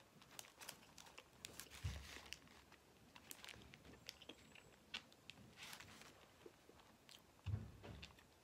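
Faint chewing of a bite of breakfast burrito in a soft flour tortilla: scattered small mouth clicks and smacks, with a soft low thump about two seconds in and another near the end.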